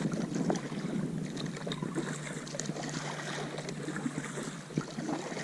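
Water splashing and lapping around a kayak, with small irregular drips and clicks over wind noise on the microphone.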